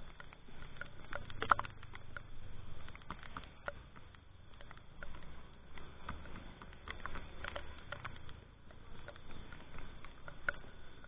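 Raindrops tapping irregularly on the camera and microphone, a scatter of sharp ticks of uneven strength with one louder tap about a second and a half in, over a low steady rumble.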